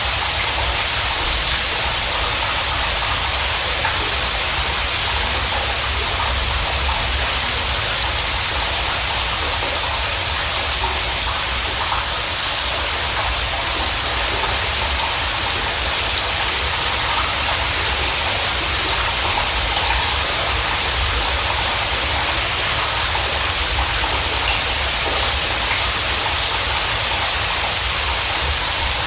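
Steady rain falling, an even hiss with scattered individual drops ticking through it and a low rumble underneath.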